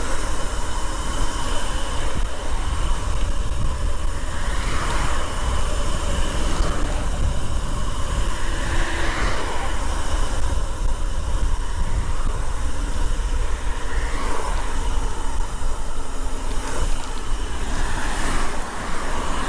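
Wind rumbling and buffeting on the microphone of a bicycle-mounted or handheld camera during a bike ride. It is a steady, loud, low rush with hiss on top.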